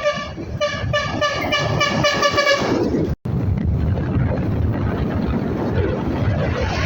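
A vehicle horn, likely a sugarcane hauler truck's, tooted rapidly in a string of short blasts for nearly three seconds. After a short break, a steady low rumble of engine and road noise follows.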